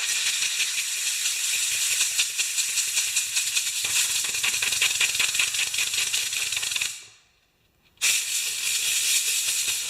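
Compressed air hissing from an air nozzle as dust is blown out of a Honda 160 lawnmower engine's air filter, with a faint rattle. It comes in two long blasts, broken by a pause of about a second roughly seven seconds in.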